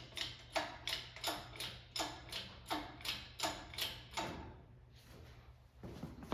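A jack being worked by hand, clicking with each stroke about once every 0.7 seconds, seven strokes in all, then stopping about four and a half seconds in.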